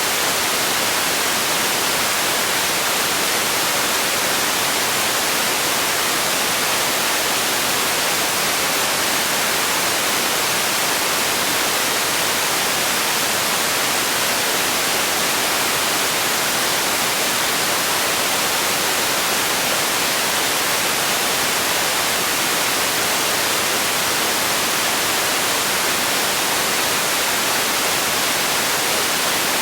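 Steady, unchanging hiss of generated sleep noise, even throughout and brighter in the highs than in the lows.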